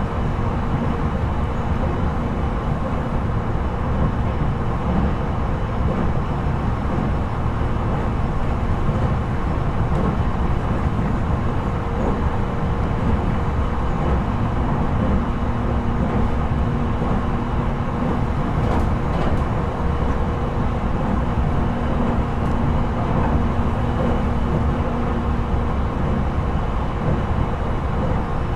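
Cabin running noise of a JR East E721-series electric multiple unit, heard inside the motor car while it runs between stations: a steady low rumble of the wheels and running gear, with a faint hum that comes and goes.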